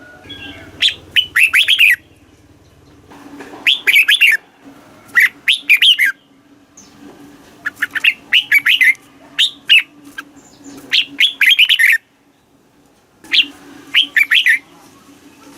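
Red-whiskered bulbul singing: a string of short, quick phrases of clear whistled notes with brief pauses between them, over a faint steady hum.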